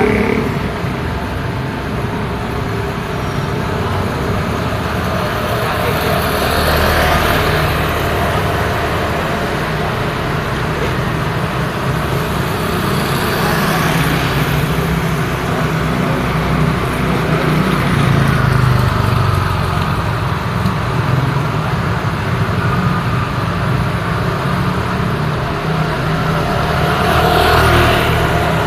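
Road traffic: a steady rumble of car engines and tyres, with vehicles swelling past about a quarter of the way in, around halfway, and again near the end.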